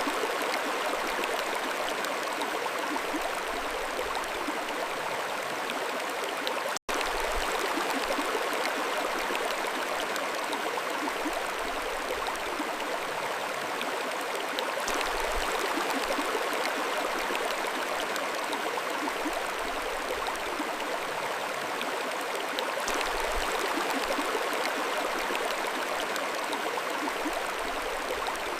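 Mountain stream flowing steadily over rocks, an even rush of water with a light gurgle. The sound drops out for an instant about seven seconds in.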